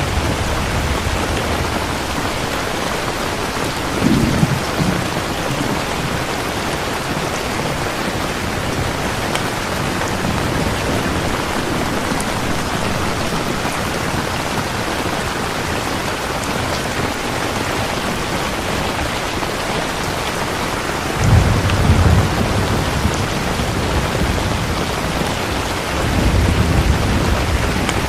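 Steady heavy rain with low rolls of thunder: a short one about four seconds in, a longer one about two-thirds of the way through, and another building near the end.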